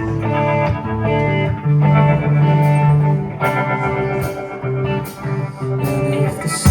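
Live band playing an instrumental intro led by guitar, a melodic run of held notes with no singing.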